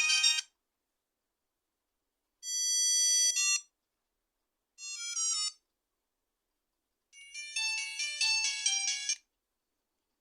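Ringtone melodies from a Nokia N95 8GB phone playing in four short snatches, each one to two seconds long, cut off abruptly with silence in between.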